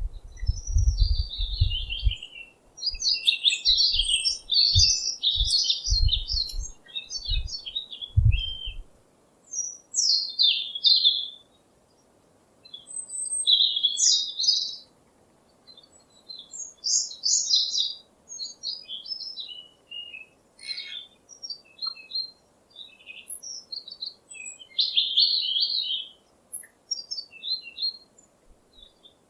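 Small birds chirping and singing in short, quick phrases and trills, separated by brief pauses. Low thumps sound during the first nine seconds.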